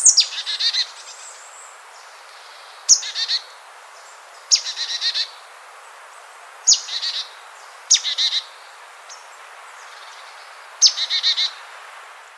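A bird singing the same short phrase six times, a few seconds apart. Each phrase is a sharp descending whistle followed by a quick run of about five chirping notes, over a faint steady hiss.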